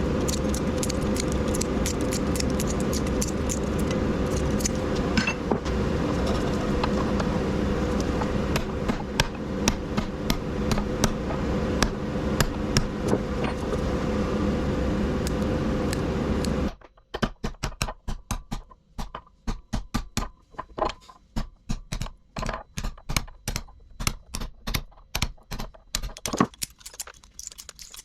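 A power tool or machine runs steadily with metallic clicking over it, then cuts off abruptly about two-thirds of the way through. After that, irregular metal clinks and taps go on, about two or three a second, as scrap motor parts are worked by hand.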